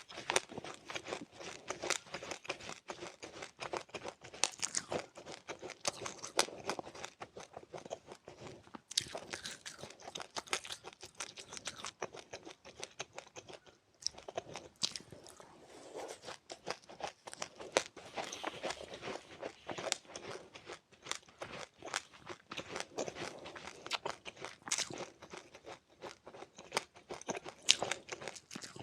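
A person chewing crunchy seeds with passionfruit: a dense, irregular run of small crackling crunches, with a brief pause about fourteen seconds in.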